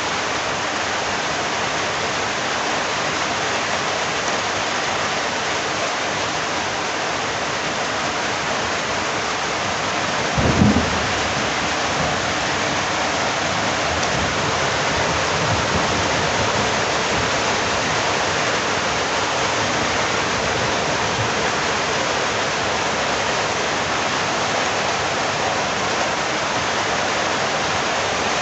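Heavy rain falling steadily, a constant hiss, with a brief low thump about ten seconds in.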